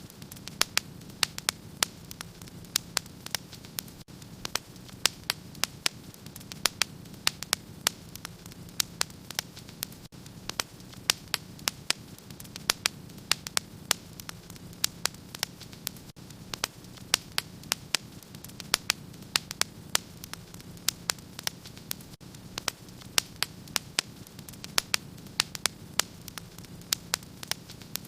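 Wood fire crackling in a fireplace: irregular sharp snaps and pops, several a second, over a low steady hum.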